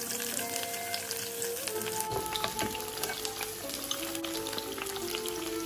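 Curry leaves, green chillies, garlic, ginger and a ground masala paste frying in coconut oil in a pan: a steady sizzle with scattered small crackles and spits.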